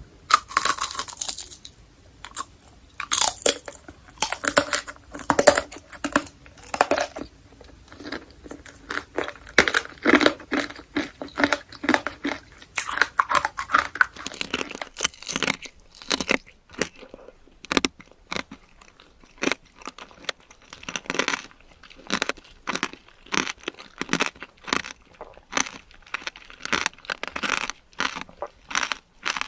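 Close-miked biting and chewing of candied fruit, its hard sugar coating cracking in many sharp, irregular crunches throughout.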